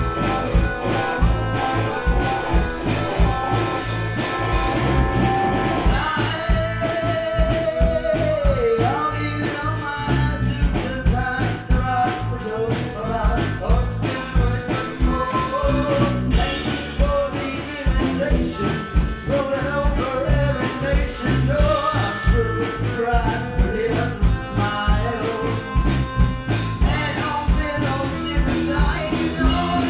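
Live gypsy rock band playing with drum kit, bass, guitar and accordion, and singing over a steady drum beat.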